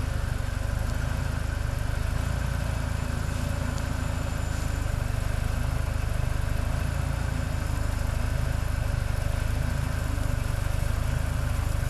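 Off-road 4x4's engine running steadily at low revs as the vehicle, tyres aired down to about 0.1–0.2 bar, tries to creep forward up a slippery climb.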